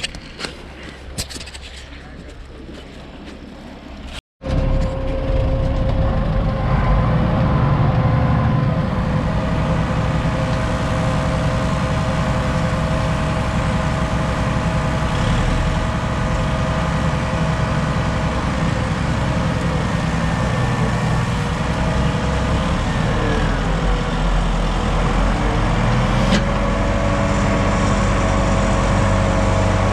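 Heavy diesel farm machinery engine running steadily and loud, starting after a brief dropout a little over four seconds in, its pitch dipping and then rising again about two-thirds of the way through.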